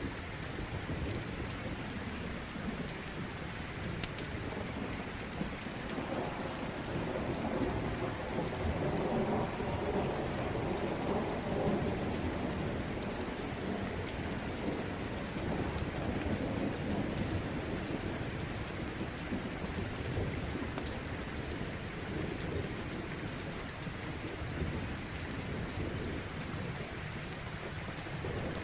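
Steady rain, with a long low rumble of thunder that swells about six seconds in and fades away by around seventeen seconds.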